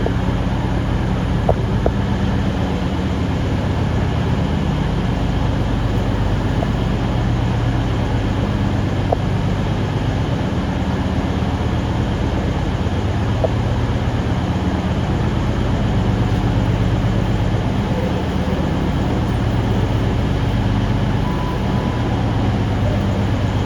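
Steady low mechanical hum of a standing train, with a few faint clicks.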